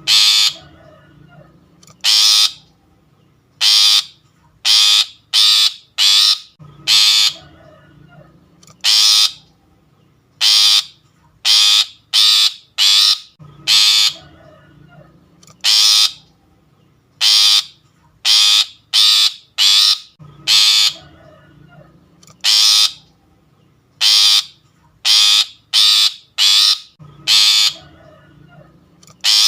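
Long-tailed shrike (pentet) giving harsh, rasping calls, each about half a second long, singly or in quick runs of two to four with short pauses between. It is a lure call used to draw in other shrikes.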